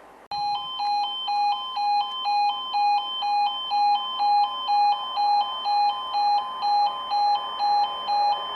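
Level crossing audible warning alarm starts suddenly and sounds continuously: a loud electronic two-tone alternating about twice a second, warning that a train is approaching and the barriers are coming down.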